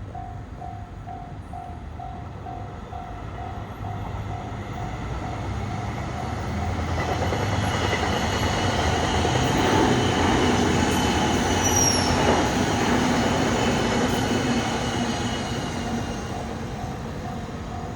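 A train passing a railway level crossing: the crossing bell rings in a steady rapid pulse, about three strikes a second, and is drowned out as the train's rumble swells to a peak in the middle, with a brief high wheel squeal, then fades as the bell comes through again near the end.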